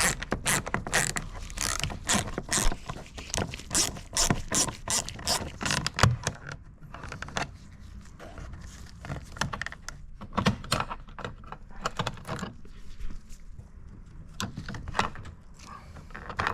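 Plastic door-panel trim on a car's rear door being worked loose by hand, clicking and scraping. A quick run of clicks for the first six or seven seconds, then scattered ones.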